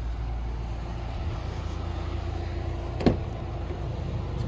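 A car engine idling steadily with a low hum. A single sharp knock sounds about three seconds in.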